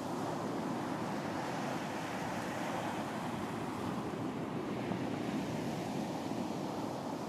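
Surf washing onto a beach: a steady rush of breaking waves that swells slightly and eases, with no single crash standing out.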